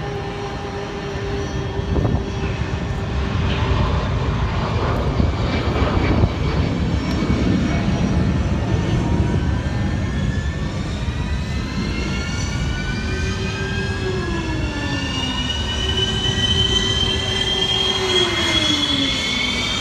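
F-15 fighter jet engine starting: a turbine whine rising steadily in pitch from about halfway through over a loud, steady rush. A lower steady tone drops in pitch twice in the second half.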